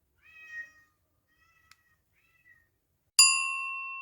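A cat meowing, one clear meow and then two faint short ones. About three seconds in, a chime is struck once and rings on, slowly fading; this is the loudest sound.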